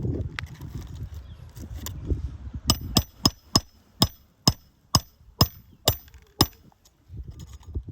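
Hammer driving roofing nails into asphalt shingles: about ten sharp, ringing blows at roughly two a second, starting about two and a half seconds in after some low scuffling.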